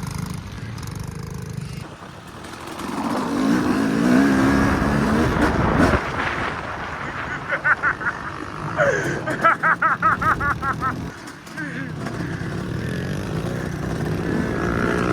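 Mini bike engines running and revving, with people's voices over them.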